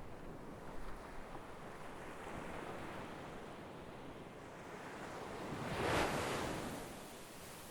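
Sea waves breaking on a shore: a steady wash of surf, with one wave building up and crashing about six seconds in, then receding.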